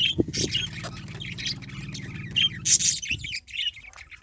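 A flock of budgerigars chattering, with many quick high chirps and squawks. A steady low hum runs under them and stops about three seconds in.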